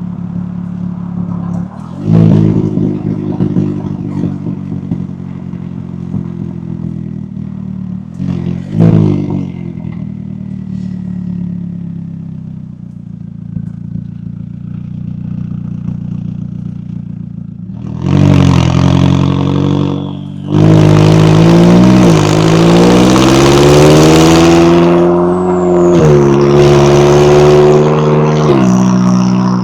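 McLaren 570S twin-turbo V8 exhaust: the engine runs steadily with two short throttle blips, then about two-thirds of the way in it pulls hard under acceleration, its pitch climbing steadily, dropping once at a gear change and climbing again before easing off near the end.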